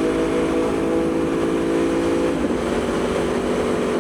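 Aprilia Tuono V4's V4 engine running steadily at cruising speed, over an even rush of wind; about two and a half seconds in the engine note briefly changes, then settles at a steady pitch again.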